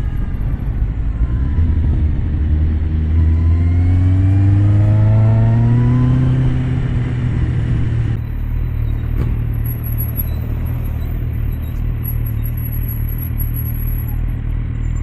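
Kawasaki Z750R inline-four with an SC Project exhaust, pulling hard with its note rising steadily for about six seconds. About eight seconds in it settles into a steady, lower-pitched running note.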